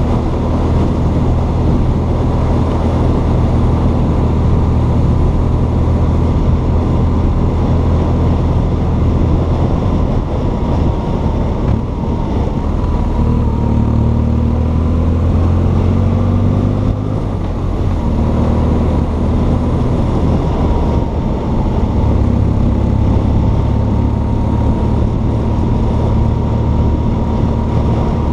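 BMW R1200 GS Adventure's boxer-twin engine running as the motorcycle is ridden at steady road speed. The engine note shifts pitch partway through, eases off for a few seconds and then picks up again.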